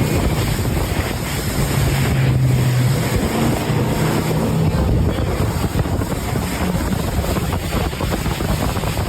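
Loud wind buffeting the microphone with a dense rushing roar, over a low steady hum.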